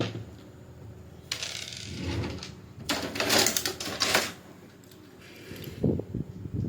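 Clattering and rustling of small tools and parts being handled on a workbench, in two spells, followed near the end by a few short knocks.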